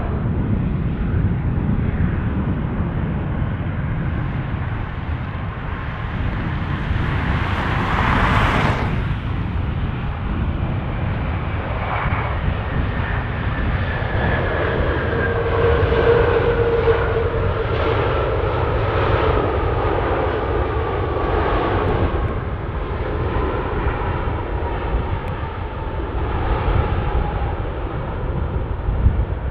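Jet airliner landing: a steady low engine rumble, with a short rushing noise about eight seconds in, then a turbine whine that slowly falls in pitch.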